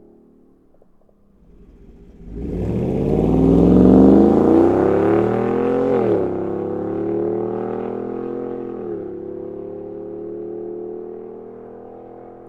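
6.2-litre V8 of a 2021+ Chevrolet Suburban through an AWE 0FG true-dual catback exhaust, accelerating hard through the gears. The note comes in loudly about two seconds in and climbs in pitch. Two upshifts drop the revs sharply, at about six and nine seconds in, and the engine pulls up again after each, growing gradually quieter.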